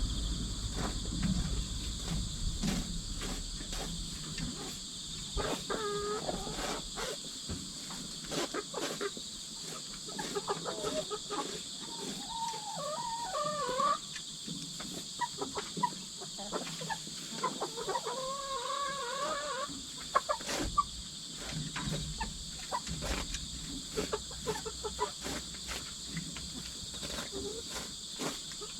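Steady chirring of crickets and other insects, with hens giving soft wavering trill calls about six seconds in and in two longer runs in the middle. Short clicks and taps are scattered throughout.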